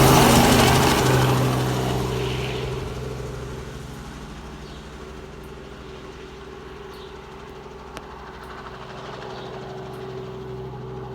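A vehicle engine running steadily, with a loud rush of noise at the start that dies away over the first few seconds.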